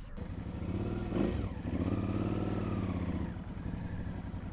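Suzuki V-Strom motorcycle engine running. It revs up about a second in, holds a higher, steady speed for about two seconds, then drops back to a steady idle.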